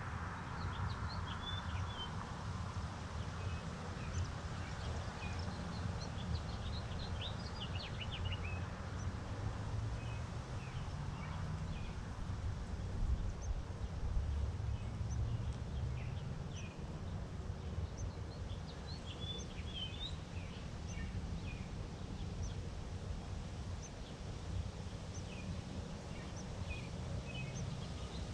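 Small birds chirping: short, high chirps in scattered clusters, over a steady low background rumble.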